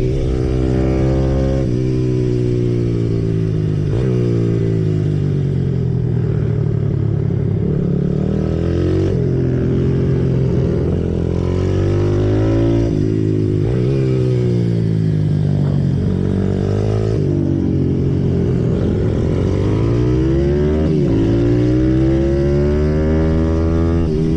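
Symoto 140cc pit bike's single-cylinder four-stroke engine heard onboard, revving up and dropping back over and over, every few seconds, as it is worked through the gears and off the throttle for corners.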